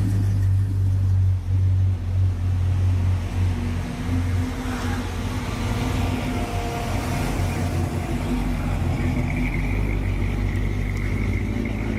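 Car engines running at low revs, a steady low rumble that shifts in pitch about four seconds in.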